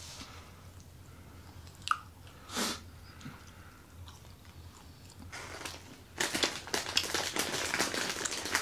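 A person chewing and biting food close to the microphone. There are a few soft mouth clicks at first, then about five seconds in the chewing turns dense and crunchy.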